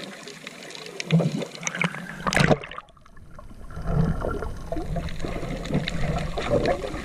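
Sea water sloshing and gurgling around a person in the water, with small splashes; about two and a half seconds in it turns suddenly dull and muffled.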